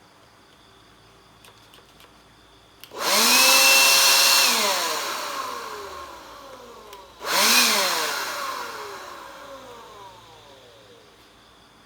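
Electric dust blower switched on twice. The first time its motor whine and rush of air hold for about a second and a half, then fall in pitch as it winds down; the second time it runs only briefly before winding down again.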